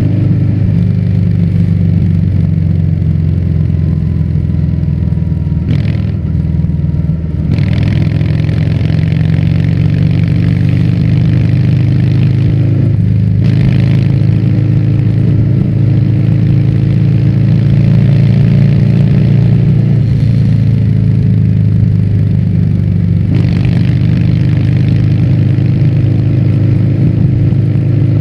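Harley-Davidson Fat Bob's Milwaukee-Eight 114 V-twin running through a Vance & Hines exhaust while riding, a steady loud note with short dips in the upper sound around six to seven seconds in, at about thirteen seconds and again near twenty-three seconds.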